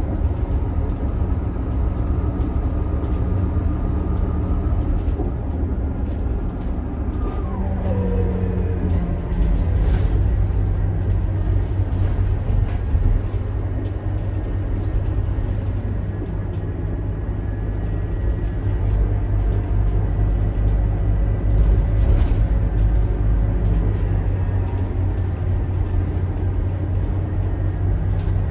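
Scania DC9 five-cylinder turbo diesel bus engine running steadily, driving through a ZF Ecomat six-speed automatic gearbox. A whine falls in pitch about seven seconds in, and there are a couple of short clicks or rattles.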